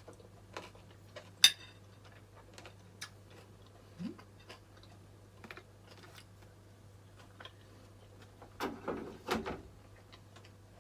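A person eating: scattered light clicks of cutlery against a plate, with one sharp click about a second and a half in, and a few louder chewing and mouth sounds near the end, over a steady low hum.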